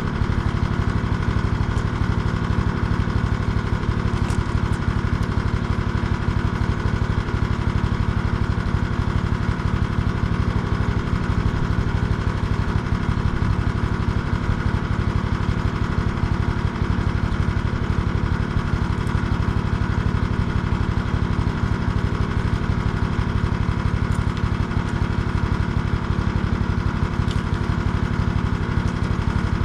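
A small engine running steadily at constant speed, with no change in pitch or level.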